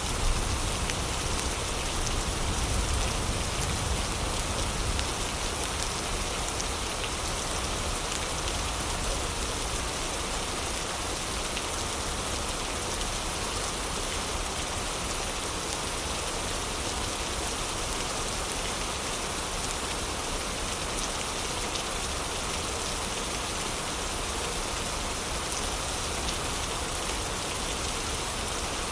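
Heavy rain falling in a steady, even hiss, with a low rumble underneath that is stronger for the first few seconds. A few faint crackles from a fireplace sit in the mix.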